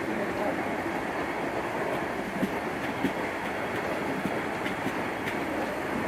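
Transperth electric multiple-unit train rolling slowly past: a steady rumble of steel wheels on the rails, with a few light clicks.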